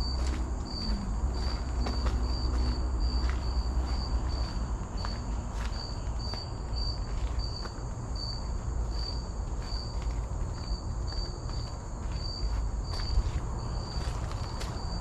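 Insects calling: a short, high chirp repeating about twice a second over a steady high-pitched insect drone, with faint footsteps and a low rumble underneath.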